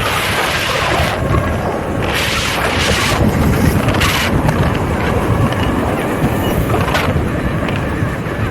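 Wind buffeting the microphone of a rider on an electric unicycle at speed: a steady low rumble with repeated hissing gusts.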